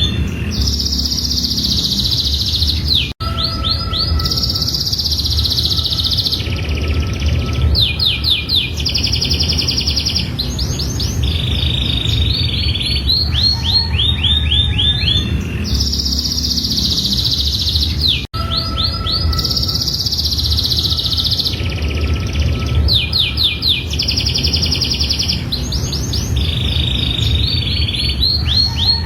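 Domestic canary singing a long, continuous song of rapid trills and rolling repeated phrases, high-pitched, over a steady low rumble. The same song passage repeats about every fifteen seconds, with a brief cut-out about three seconds in and again about eighteen seconds in.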